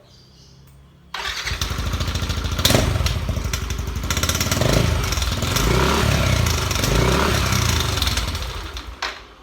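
Yamaha NMAX scooter's single-cylinder four-stroke engine running loud through an AHRS silent-series racing exhaust with no baffle packing. It comes in suddenly about a second in, the revs rise and fall a few times, and it drops away near the end. A clattering heard in it is, by the owner's account, a socket wrench left stuck in the exhaust.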